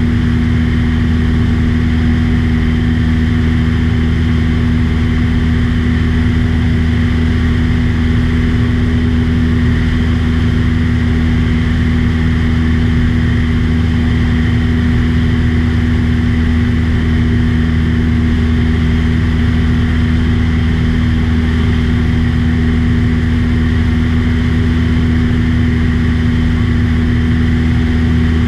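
Light aircraft engine and propeller running steadily in flight, a loud, constant low drone with no change in pitch.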